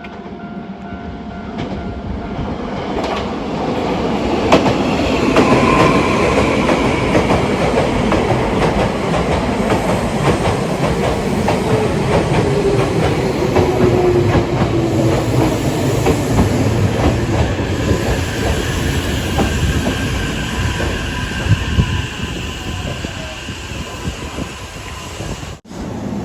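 Hankyu electric train running through the station, its wheels clattering over the rail joints, with a whine that falls in pitch midway. The sound swells over the first few seconds and cuts out briefly near the end.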